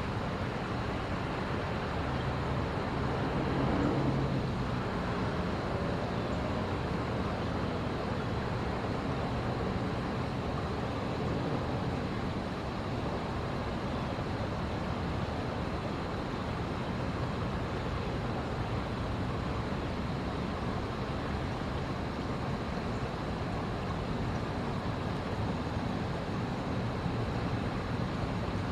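Steady hum of road traffic, with one vehicle briefly swelling louder about four seconds in.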